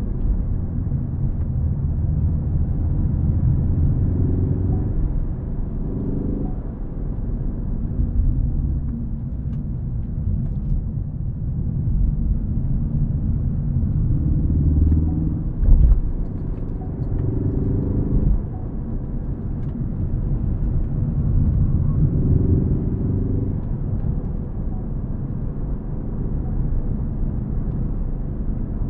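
Ford Focus ST engine under way with a deep rumble of engine and road noise; several times the engine note climbs under acceleration and then drops back, as on a shift or lift-off. A brief louder thump-like surge comes about sixteen seconds in.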